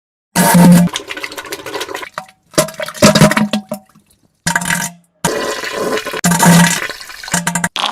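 A rapid string of about six loud, wet farts and diarrhea splatters, several with a low buzzing rasp. Each is cut off abruptly by a moment of dead silence before the next begins.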